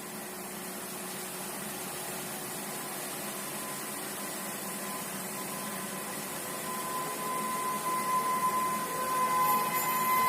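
Garib Rath Express train approaching at speed: a steady rushing noise that slowly grows louder. From about seven seconds in, a high steady tone rises in level with it.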